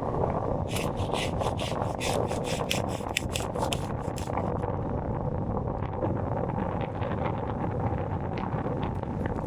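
Hand pruning saw cutting through a branch: a run of quick rasping strokes, about four a second, for the first half, then stopping. Wind buffets the microphone throughout.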